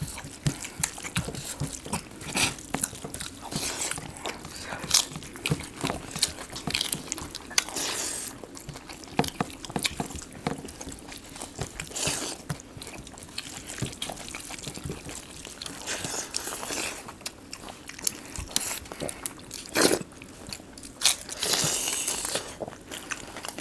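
People eating rice with golda chingri (giant freshwater prawn) curry: chewing, biting and crunching, with many small clicks and several louder bursts spread through the stretch.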